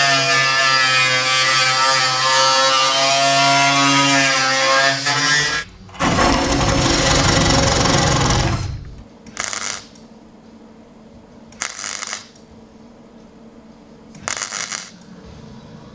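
Angle grinder working on the steel tub: a steady motor whine that sags slightly under load and stops sharply after about five and a half seconds. A louder burst of grinding noise follows for about three seconds, then four short scraping bursts a couple of seconds apart.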